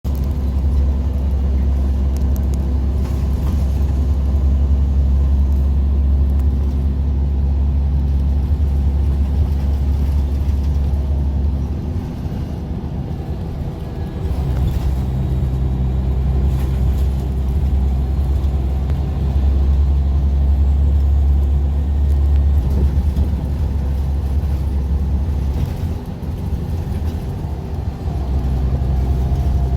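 A bus's engine and road noise as a steady, loud low drone. It eases off briefly about twelve seconds in and again near the end, then picks up again.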